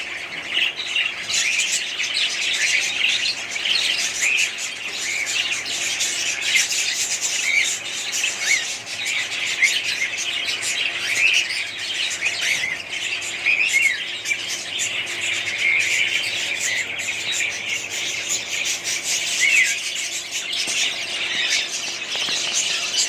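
A flock of budgerigars chirping and chattering steadily, with many short calls overlapping.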